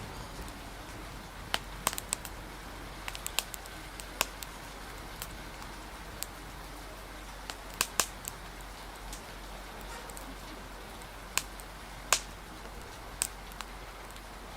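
Wood fire crackling, with irregular sharp pops scattered through, over a steady hiss of rain.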